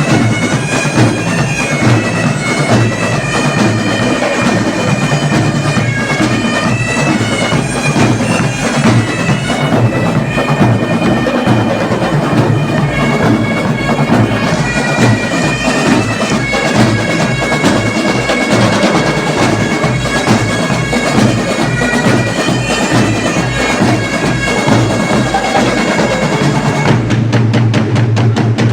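Bagpipes playing a melody over their steady drone, with drums beneath; about 27 seconds in, the pipes' melody drops out and rapid drumming takes over.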